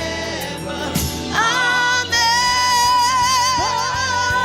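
Gospel worship music with singing; from about a second and a half in, voices hold a long note with vibrato over the backing.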